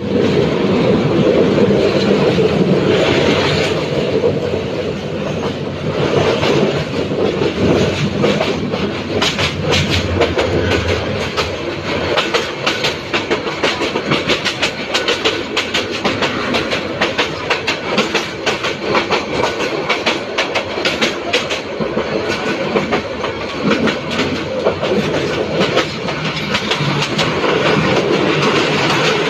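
Paharika Express passenger train running at speed, heard from an open coach window: a steady rumble of wheels on track, with rapid clickety-clack of the wheels over rail joints that comes thickest through the middle stretch.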